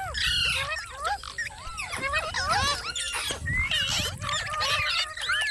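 Green parrot chattering in a rapid run of short, squeaky whistles and chirps that bend up and down in pitch.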